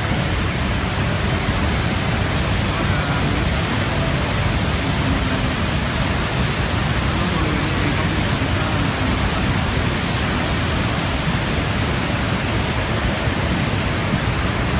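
Niagara Falls close by: a steady, unbroken rush of falling water.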